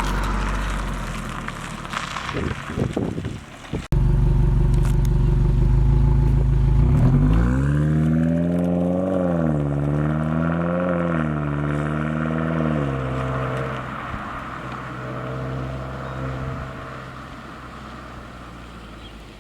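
Subaru WRX (2022+) engine running through an AWE Touring cat-back exhaust. A steady low exhaust note breaks off abruptly about four seconds in. The revs then climb, rise and fall twice, and drop back, and the sound eases off near the end.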